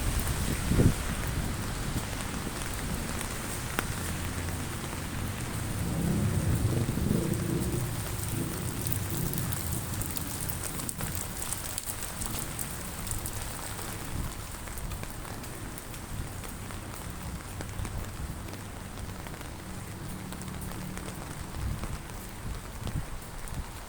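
Heavy rain falling steadily, with a low rumble swelling for a couple of seconds about six seconds in.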